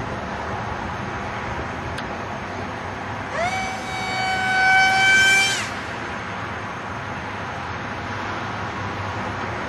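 Electric motor and propeller of a small RC flying wing whining up sharply as the throttle is opened about three seconds in, holding a high, steady pitch for about two seconds, then cutting off abruptly; otherwise a steady background hiss.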